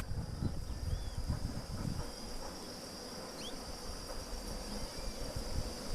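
Steady high-pitched insect drone, with a few faint short bird chirps over it and some low rumbling in the first two seconds.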